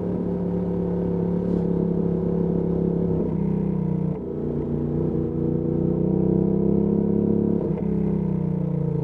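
Ducati Panigale V2S's V-twin engine running through a Termignoni exhaust at steady, moderate revs. The revs step up about three seconds in, dip briefly about a second later, and climb again before easing off.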